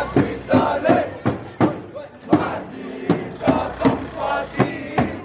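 Drum beaten in a steady rhythm of about three strokes a second, with a crowd shouting and chanting over it.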